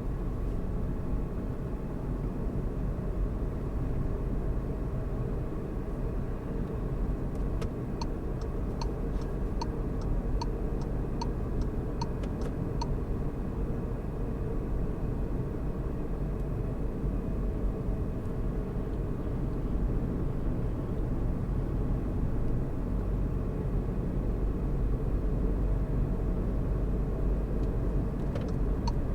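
Steady rumble of a car driving, road and engine noise heard from inside the cabin. About a third of the way in, the turn-signal indicator ticks briefly, about two ticks a second, and starts ticking again at the very end.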